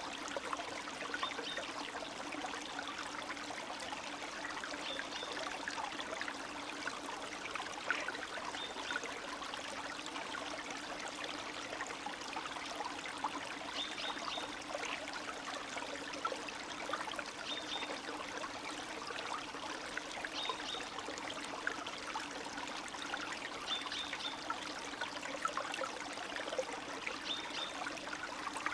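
Small springtime stream running steadily, trickling and burbling with many small splashes.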